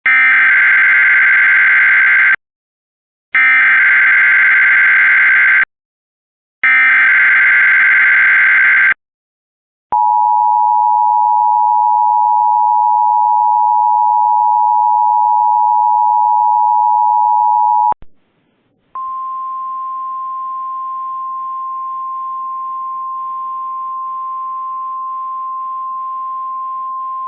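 Emergency Alert System weather radio alert signals. Three identical buzzy digital SAME header bursts, each about two and a half seconds long, are followed by a steady two-note attention tone for about eight seconds. After a short gap comes a single steady, slightly higher 1050 Hz weather radio warning tone, announcing a severe weather message.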